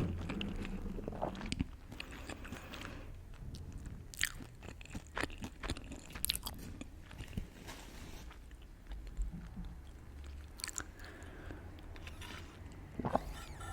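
A person eating crunchy food: bites and chewing, with scattered sharp crunches.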